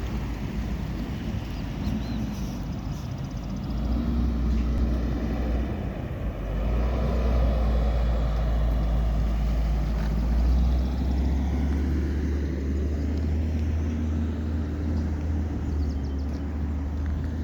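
Road traffic: vehicle engines running and passing over a steady low rumble, swelling a few times as vehicles go by.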